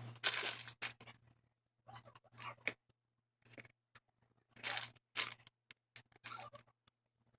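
Irregular short scraping and clicking noises of something being handled, in about eight separate bursts with quiet gaps between them.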